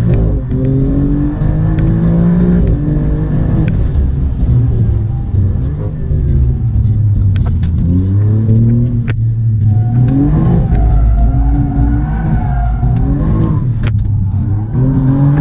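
Alfa Romeo Giulia Quadrifoglio's twin-turbo V6 heard from inside the cabin under hard driving: the engine note climbs under throttle and drops back several times. A few sharp clicks cut through.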